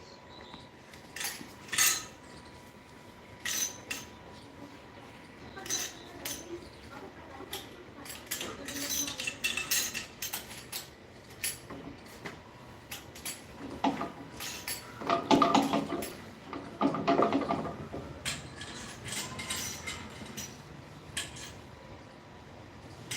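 Metal utensils and dishes clinking and clattering as they are handled: scattered sharp clinks and knocks at irregular intervals.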